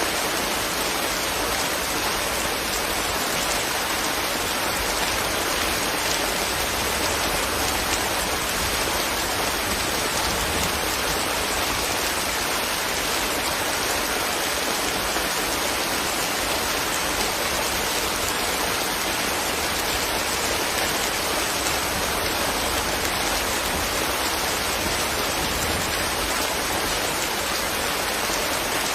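Steady, even rain hiss with no breaks or distinct drops standing out.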